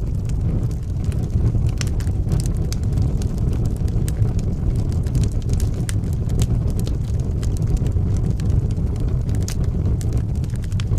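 Wood fire in a fireplace crackling, with frequent sharp pops scattered irregularly over a steady low rumble.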